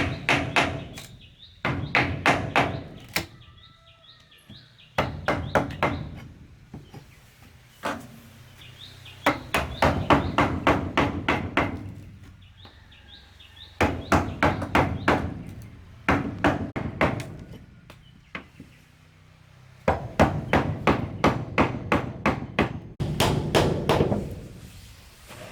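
A tool striking wood in quick bursts of about six to eight blows, each burst lasting a second or so, with short pauses between.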